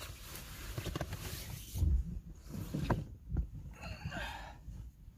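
Rustling and handling noise with several dull knocks, as camping gear is fitted and adjusted inside a small car.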